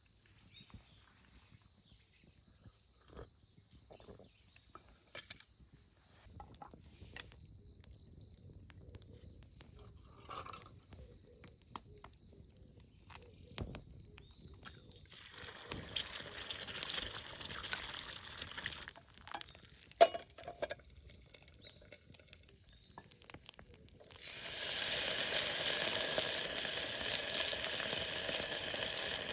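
Small clicks and knocks of cooking gear being handled over a faint steady insect tone. About 24 seconds in, food hits a hot pan and starts sizzling loudly, after a shorter sizzle around 16 seconds in.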